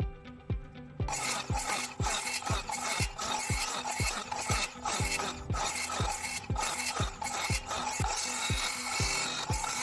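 Background music with a steady beat. From about a second in, a circular saw is cutting fiber cement (Hardie) siding, with a continuous harsh rasping noise.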